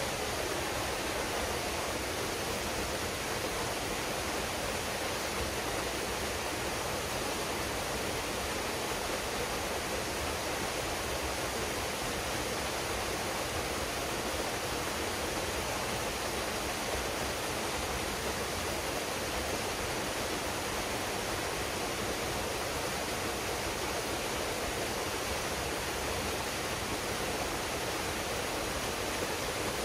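Waterfall pouring into a pool, a steady even rush of falling water.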